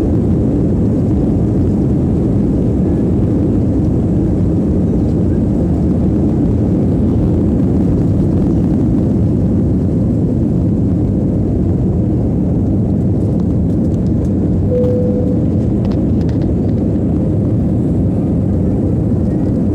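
LATAM jet airliner's engines during takeoff: a loud, steady, deep rumble that holds at an even level throughout.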